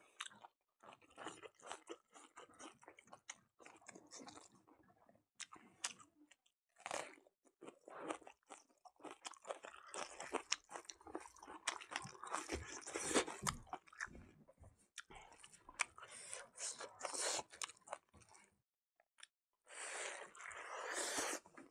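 A person eating with their hands: chewing and crunching mouthfuls of raw leafy green stems, pork and rice, in irregular runs of crunches with short pauses, and a denser stretch of chewing near the end.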